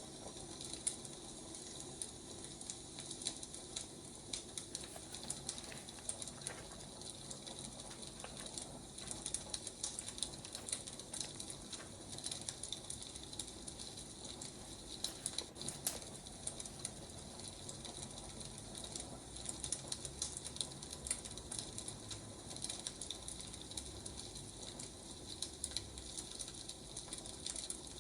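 Firewood burning with a steady hiss and irregular crackles and pops.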